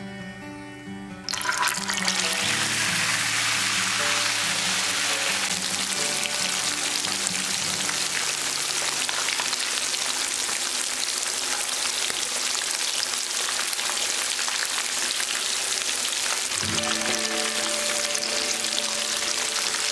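Hot oil sizzling and bubbling as a whole marinated chicken deep-fries in a frying pan. The sizzle starts suddenly and loudly about a second in, as the chicken meets the oil, then holds steady, with background music under it.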